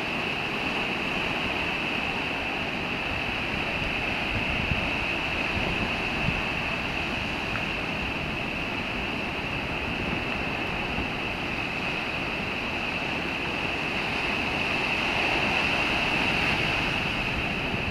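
Rough, typhoon-driven surf breaking and washing with a steady roar, along with wind, under a constant high hiss.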